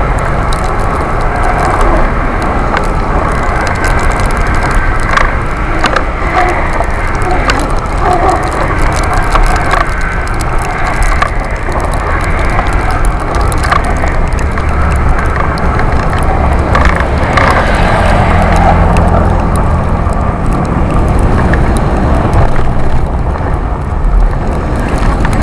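Riding noise from a Busetti Vortex electric bike moving through snow: a steady rush of wind buffeting the microphone and tyre noise, with frequent clicks and knocks throughout.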